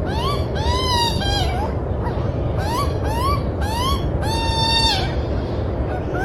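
A bird calling in a series of short rising calls, about two a second, with one longer level call about two-thirds of the way through, over a steady low rumble.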